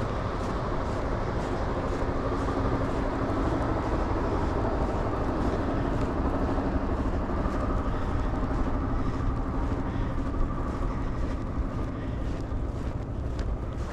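Steady low rumble of a vehicle engine with a faint hum, over footsteps crunching through snow about twice a second.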